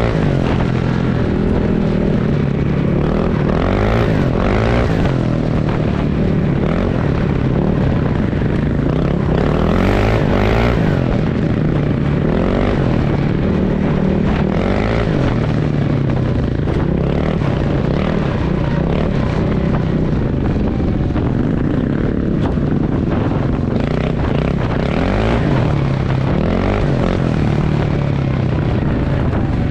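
Motorcycle engine running under way, its revs rising and falling again and again as the bike accelerates and eases off, over steady wind noise.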